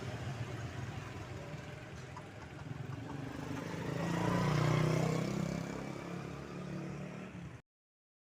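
A motor vehicle's engine passing close by, rising to its loudest about five seconds in and then easing off. The sound cuts off abruptly near the end.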